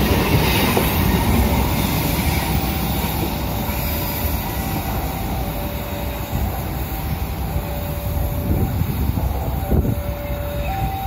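Passenger train's coaches rolling away on the rails, a dense rumble of steel wheels that gradually fades as the train draws off. From about two seconds in, a faint two-note tone alternates over it roughly once a second.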